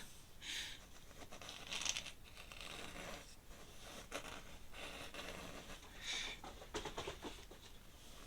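Ink pen strokes scratching on paper: faint, irregular short strokes as feathers are sketched in loosely.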